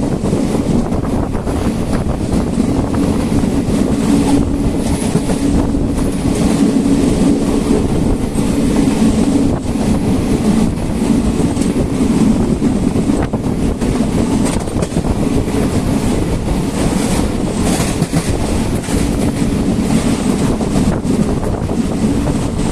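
Krishna Express passenger train running: a steady rumble of the coach with wheels clicking over the rail joints.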